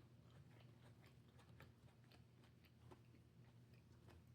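Near silence: faint chewing of food, a few soft scattered clicks over a low steady hum.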